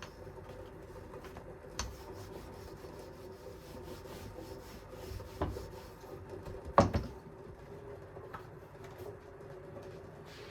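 Kitchen handling sounds: scattered taps and light rubbing, with sharper knocks near two seconds, about five and a half seconds and the loudest about seven seconds in, over a steady low hum.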